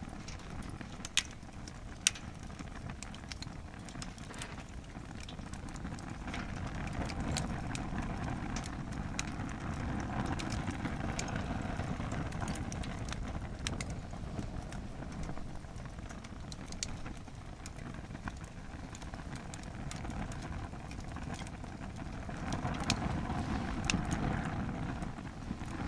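Wood fire in a campfire stand, overloaded with logs and burning hard: a steady low rush of flames that swells and eases, with scattered crackles and pops from the burning wood, two sharp pops about a second and two seconds in.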